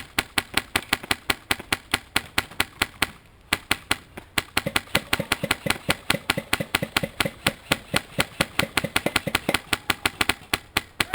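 Polarstar HPA airsoft rifle (Scar-L) firing a long string of rapid shots, about seven a second, loud and close, with a brief break about three seconds in.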